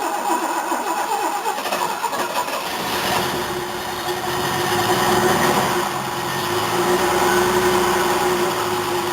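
An old car's starter cranking the engine, which catches about three seconds in and then runs roughly, its speed rising and falling. The engine is not running well; the owner blames a poor tune and a rich mixture.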